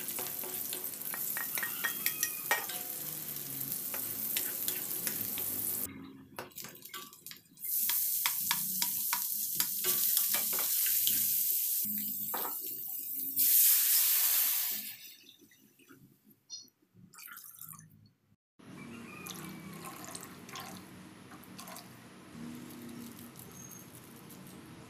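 Garlic, then shredded chicken, sizzling in oil in a wok, stirred with a wooden spatula that clicks and scrapes against the pan. About halfway through comes a loud rush of water-like hiss, the loudest moment, as chicken stock is poured in. It fades, and after a short near-quiet gap a softer steady hiss of the broth follows.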